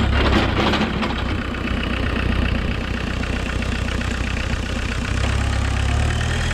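Homemade tractor's VW 1.6 turbodiesel four-cylinder engine running steadily. Its low drone eases a little about a second in and strengthens again about five seconds in.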